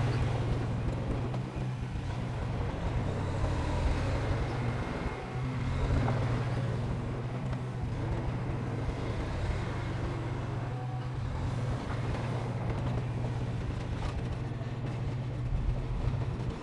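Heavy diesel earthmoving machinery running, a steady low engine drone.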